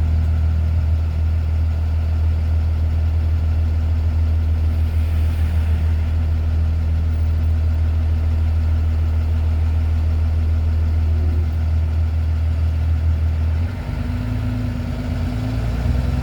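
Delivery truck's engine running with a steady low drone, heard from inside the cab. Near the end the drone dips and turns uneven.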